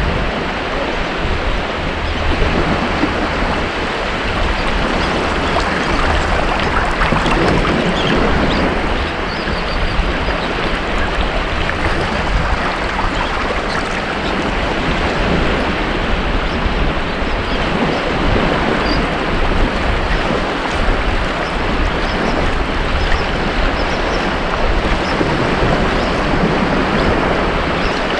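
Ocean waves washing onto a beach: a continuous rush of surf that swells and eases.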